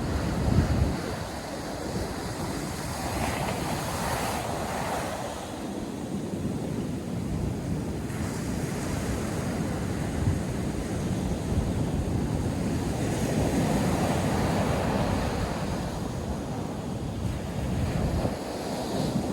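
North Sea surf breaking and washing on the beach, swelling and easing in slow surges, with wind buffeting the microphone in low rumbles.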